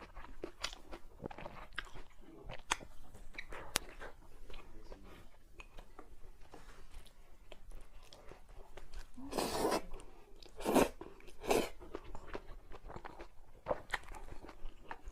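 Close-up chewing of crunchy food: a run of sharp, crisp crunches between bites, loudest in a cluster a little past the middle.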